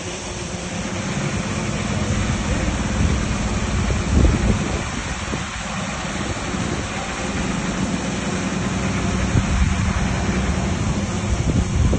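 Diesel engine of heavy earthmoving machinery running steadily, a low drone under a broad rumbling noise, with louder low thumps about four seconds in and near the end.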